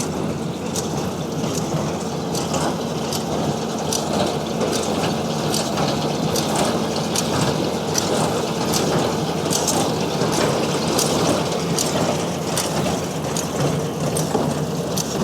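Tractor-driven two-string small square hay baler running: a steady engine hum under an even clacking about twice a second from the baler's working mechanism.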